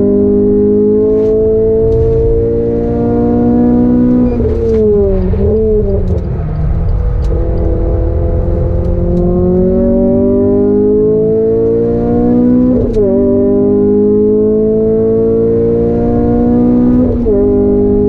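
Renault Clio 200 Cup's naturally aspirated 2.0-litre four-cylinder engine at full throttle on track, heard inside the cabin. The engine note climbs steadily and falls sharply about four seconds in, with a short blip and a quieter lull. It then climbs again twice, each time ending in a sudden drop in pitch at a gear change.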